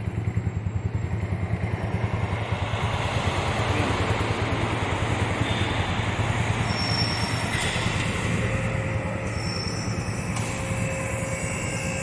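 Motorcycle engine idling with a fast, even low pulse, joined about two seconds in by a broad rushing noise that holds steady over it.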